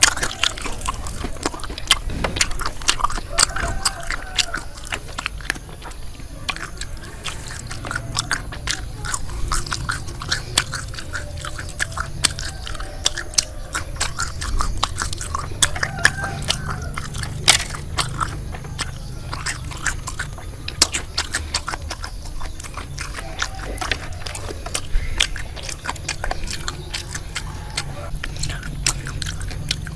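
Close-up chewing and crunching of deep-fried, corn-flour-battered frog, with many sharp crisp crackles of the fried coating as it is bitten and chewed.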